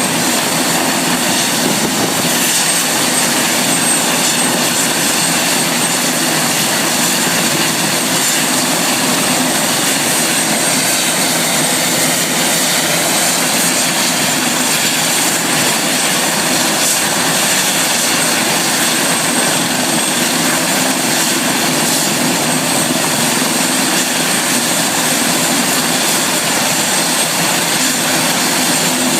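Helicopter running steadily: an unchanging loud rush of engine and rotor noise with a steady high whine.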